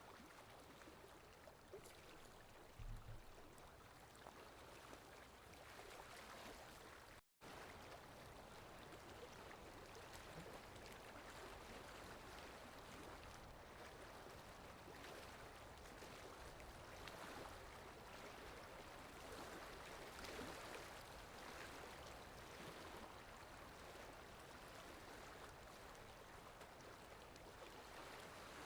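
Faint, steady running-water sound of a stream, with a soft low thump about three seconds in and the sound cutting out for a split second about seven seconds in.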